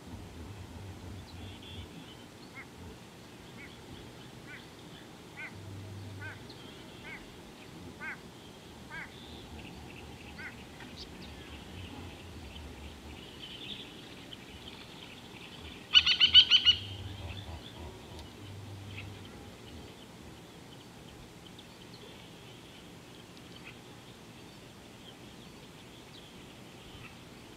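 Birds calling: a run of short, evenly spaced calls about one a second, then a loud, harsh burst of rapid honking calls a little past halfway, lasting about a second.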